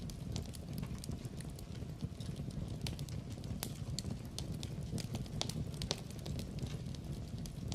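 Wood fire crackling in a fireplace: a steady low rumble of burning with frequent, irregular sharp pops and snaps from the logs.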